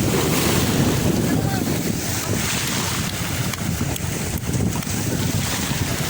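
Wind buffeting the microphone with a steady low rumble, over the wash of sea surf on the shore.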